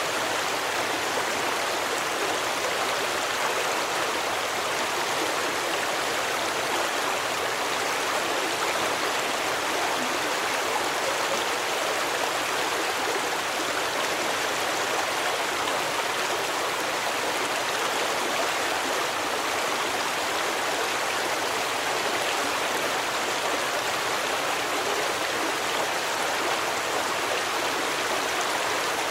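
A stream of running water, a steady even rush with no breaks or changes.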